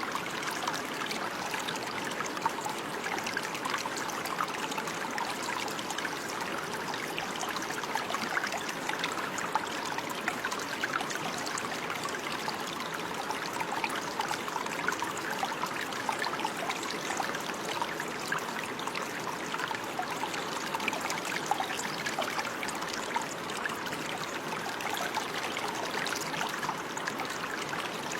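Running water, a steady babbling trickle like a small stream, with many small splashes.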